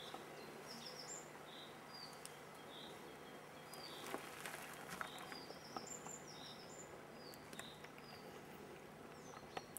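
Small birds chirping over and over in short high notes, with a few faint clicks and taps.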